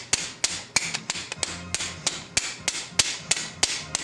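Steady hammer blows, about three a second, on a corroded, seized piston being driven out of a 1977 318 V8 engine block.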